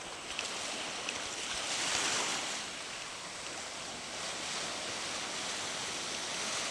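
Surf breaking on a sandy beach as a steady wash of waves. One wave swells louder about two seconds in, then fades back.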